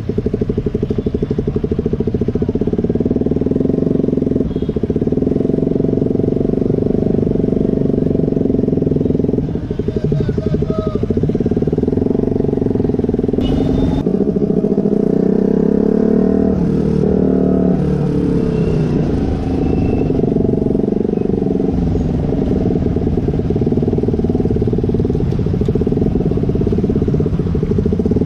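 KTM 125 motorcycle with an aftermarket Akrapovič exhaust, its single-cylinder engine running loud and steady, the pitch rising and falling around the middle.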